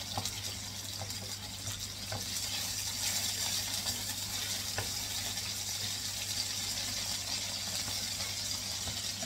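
Chicken breast pieces sizzling in oil in a nonstick frying pan: a steady hiss, with a few light taps of wooden utensils as the pieces are turned.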